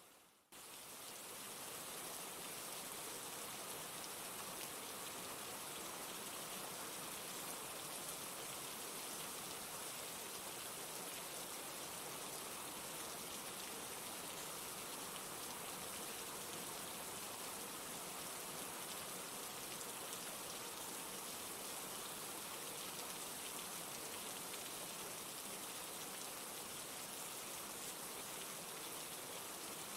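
Steady rain falling, an even hiss with no breaks. It fades out briefly at the very start and comes straight back.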